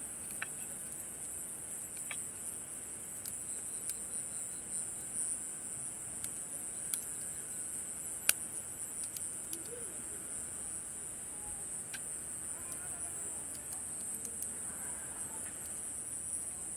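Steady, high-pitched chorus of night insects, with scattered crackles and pops from a wood campfire; one sharp pop about eight seconds in is the loudest sound.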